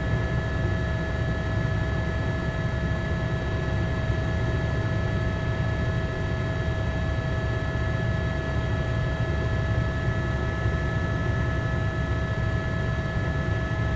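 A steady engine drone: a constant low rumble with a few steady whining tones over it and no bangs or pops.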